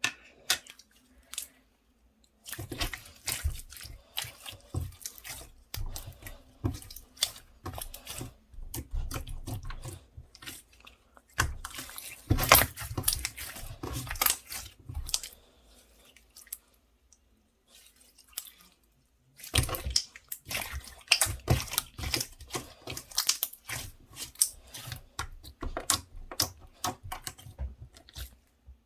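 Slime being squished and poked by hand: runs of wet clicking and crackling pops, with a pause of a few seconds just past the middle.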